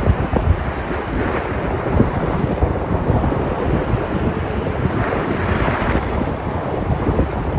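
Sea surf breaking and washing on the shore, a steady rushing noise, with wind buffeting the microphone. A wave washes in more brightly about five seconds in.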